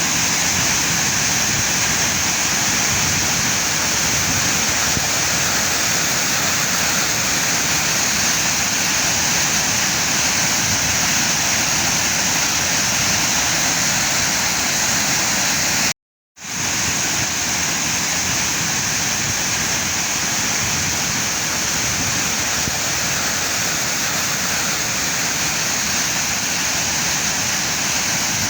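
Barskoon waterfall: a steady, even rush of falling water, broken once about halfway through by a brief drop-out where the recording cuts and starts again.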